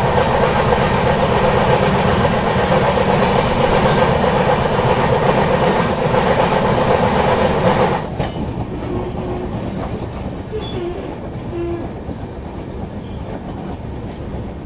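Indian Railways passenger train coach running fast on the rails, heard from an open door: a loud, dense rush of wheel and track noise. About eight seconds in it drops suddenly to a quieter rumble as the train runs slowly past buildings towards a station platform.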